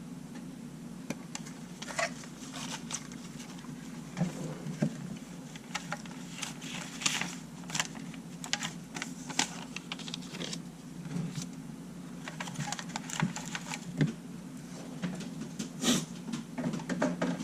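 Irregular small clicks, taps and scrapes of camera parts and small tools being handled on a workbench, over a steady low hum.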